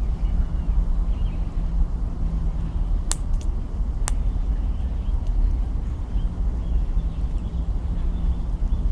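Campfire burning with a steady low rumble, and two sharp pops of crackling wood about three and four seconds in. Faint chirps sound above it.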